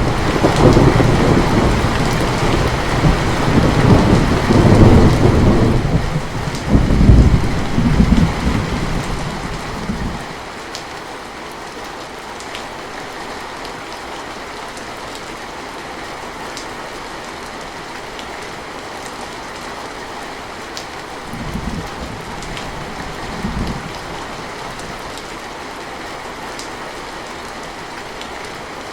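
Steady rain falling, with a long, loud roll of thunder that fades out about ten seconds in, then a fainter rumble of thunder in two swells about three-quarters of the way through.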